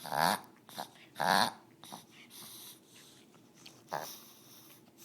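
A Shih Tzu in a wheezing, coughing fit. Two strong bursts come in the first second and a half with smaller ones between them, and another comes about four seconds in. The owner cannot tell whether something is caught in her throat or nose or whether it is an asthma attack.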